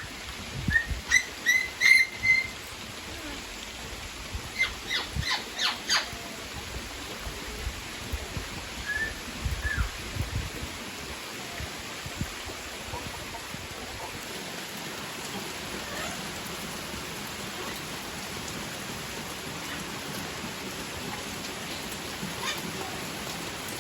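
Steady rain falling, with birds calling over it in the first ten seconds: a few short chirps, then a quick series of calls that sweep downward, and a few scattered calls after; then mostly just the rain.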